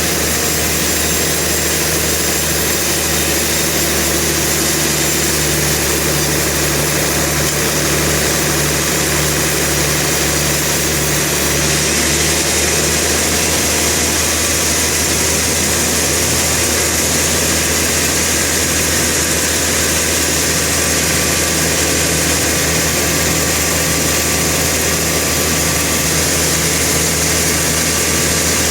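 Sawmill machinery running steadily: a low, even engine hum under a constant hiss, the hiss growing brighter about twelve seconds in.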